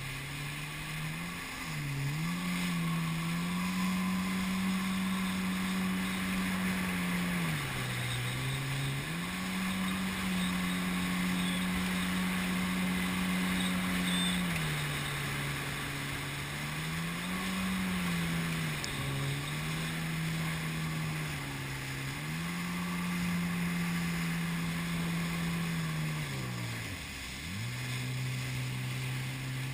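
Jet ski engine running at speed, its pitch dipping and climbing again several times as the throttle is eased off and reopened, dropping briefly to near idle near the end. A steady hiss of water and wind runs underneath.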